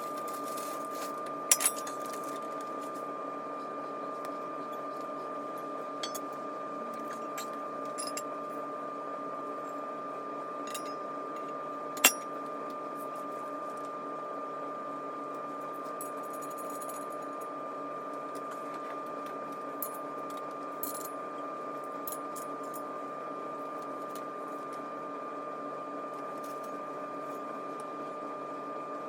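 Steady hum with scattered sharp clicks and knocks, the loudest about twelve seconds in, as engine-stand parts are handled during assembly.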